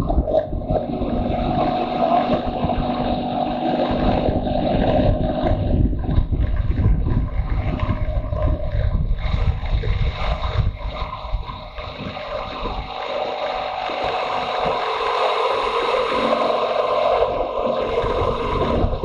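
Motorcycle engine running under way, with wind noise over the microphone. The engine eases off for a moment about twelve seconds in, then picks up again.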